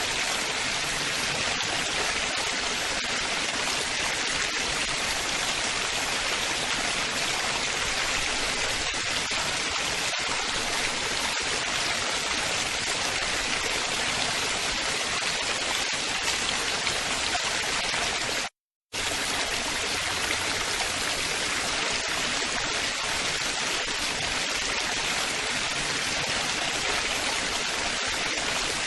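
Babbling running water, a steady splashing rush of a stream or small waterfall. It cuts out to silence for a split second about two-thirds of the way through.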